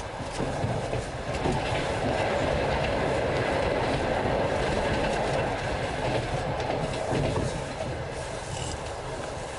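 A passenger coach's wheels running at speed on the rails, heard from inside the coach: a steady rumble with scattered clicks. It grows louder about a second in and eases off near the end.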